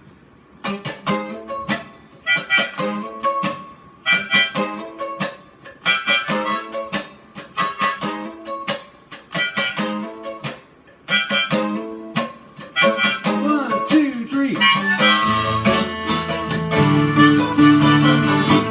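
Instrumental intro of an acoustic song: a harmonica playing the melody over strummed chords on a Carvin twelve-string acoustic guitar, in short phrases. About fifteen seconds in the playing turns continuous and fuller, with more low notes.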